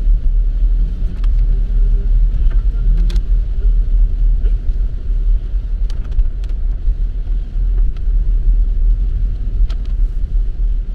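Steady low road and engine rumble heard inside a car's cabin while driving in heavy rain, with a few faint clicks scattered through it.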